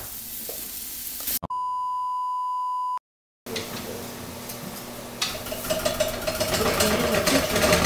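An edited-in steady beep, like a broadcast off-air test tone, held for about a second and a half and cut off abruptly into a moment of dead silence. Before and after it, food sizzles in a pan on the stove with utensils clattering.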